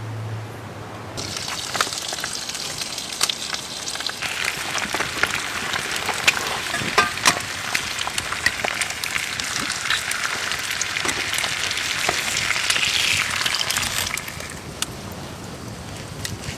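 Steady sizzling hiss with many sharp crackles. It starts abruptly about a second in, grows a little louder and cuts off near the end.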